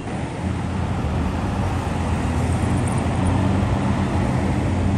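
A car engine running at low revs close by, a steady low drone that grows gradually louder, over street traffic noise.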